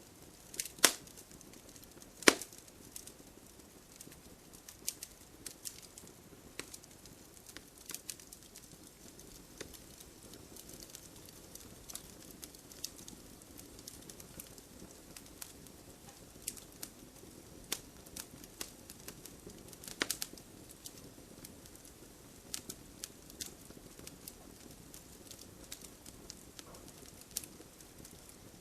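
Wood fire crackling in a fireplace: irregular sharp snaps and pops over a soft steady hiss. Two loud pops come near the start and another about two-thirds of the way through.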